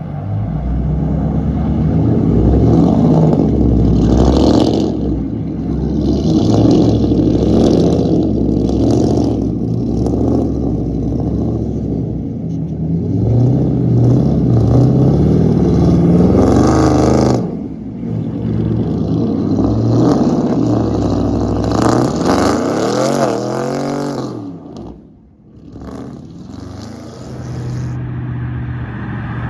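Loud pickup truck exhausts running and revving across several short clips, changing abruptly a few times; about two-thirds of the way through one engine revs up and falls back.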